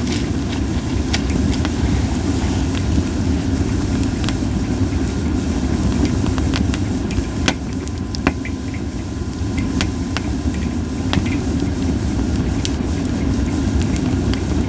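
Campfire of Japanese white pine wood burning, with scattered sharp crackles and pops over a steady low rumble.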